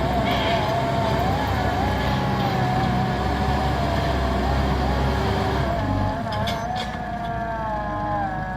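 JCB backhoe loader's diesel engine running steadily, with a high whine that wavers up and down in pitch over it; the engine note changes about six seconds in.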